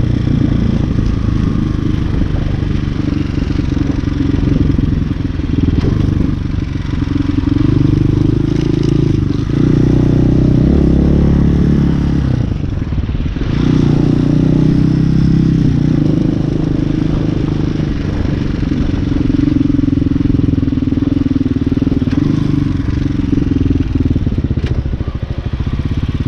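Hawk 250cc dirt bike's single-cylinder four-stroke engine running while riding. Its pitch and level step up and down several times with throttle and gear changes, with a short drop about twelve seconds in.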